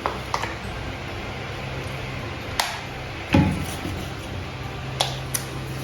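Steady hiss of running water with a low hum under it, broken by several sharp clacks and knocks of things being handled, the loudest a dull thump about three and a half seconds in.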